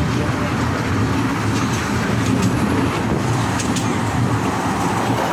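Passenger ride train rolling along its track: a steady rumble with a few light clicks in the middle.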